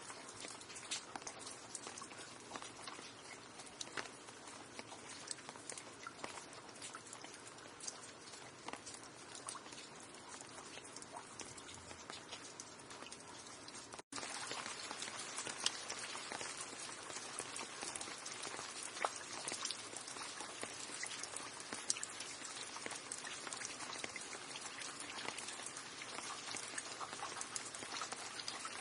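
Steady rain with many individual drops pattering. About halfway through the sound cuts out for an instant and resumes a little louder.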